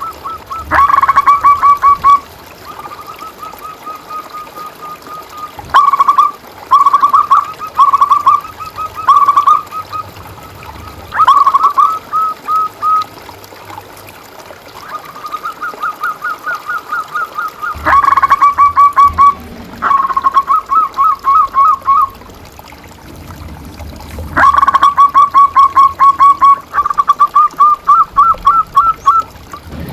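Zebra doves (perkutut) singing: phrase after phrase of quick, bright cooing notes, each phrase one to three seconds long with short pauses between.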